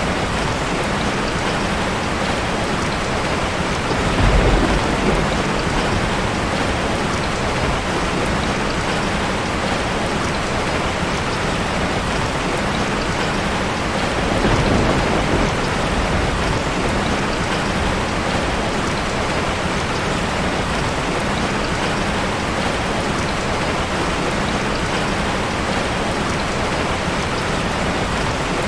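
Steady, loud hiss of water noise with no speech, swelling briefly with a low rumble about four seconds in and again about fourteen seconds in.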